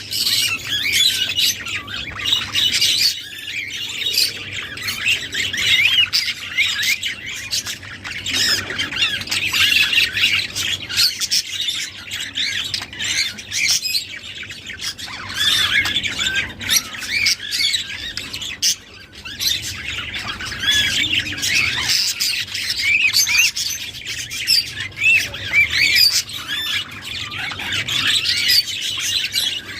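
A flock of budgerigars chattering and warbling continuously, a dense mix of squawks, chirps and quick rising and falling whistles.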